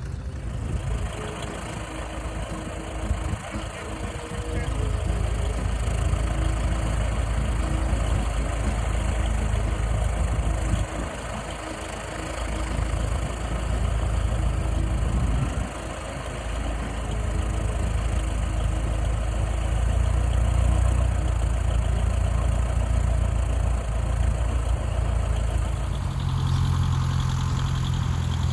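An engine idling steadily: a continuous low rumble.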